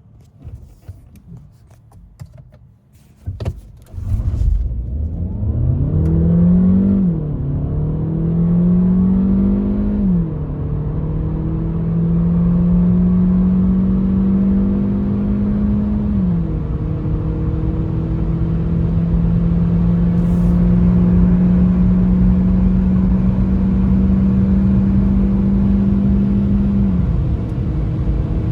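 Seat Leon FR 1.5 eHybrid's 1.5 TSI four-cylinder engine under full-throttle acceleration, starting about four seconds in after a few faint clicks. Its note climbs and drops sharply three times as the gearbox shifts up, then rises slowly through a long top gear before easing off near the end.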